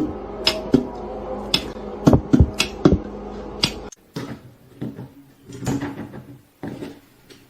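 Sharp knocks and clatters in a small room, several within the first four seconds, then a quieter stretch with a few fainter thumps.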